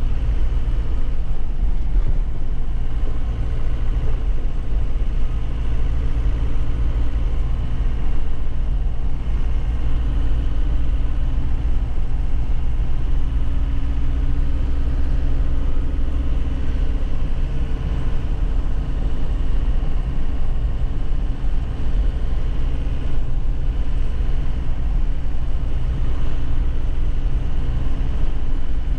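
2001 Nissan Cabstar light truck's diesel engine running steadily under way, with a constant low rumble of the drive and road, its note drifting only slightly.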